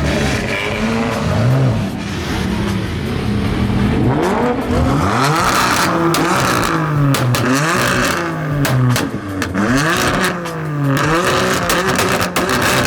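Car engine being revved hard over and over, its pitch climbing and dropping in quick repeated sweeps. Sharp cracks from the exhaust come through the later part.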